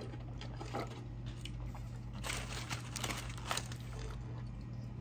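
Close-miked mukbang eating: crunchy bites and chewing of fried fast food, several sharp crunches at irregular intervals, with a steady low hum underneath.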